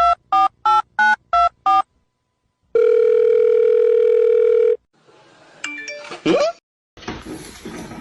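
Telephone keypad tones: a quick run of short two-note beeps, about three a second, for the first two seconds. After a pause comes a steady phone tone of about two seconds, then a few short chirps and a different noisy scene with a faint high whine.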